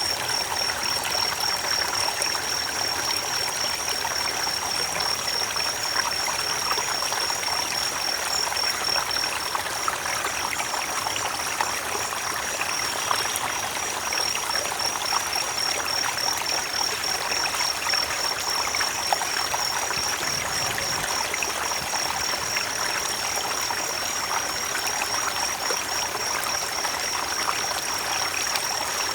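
Creek water running steadily over stones, an even rushing trickle. A steady high, rapidly pulsing trill sits above the water.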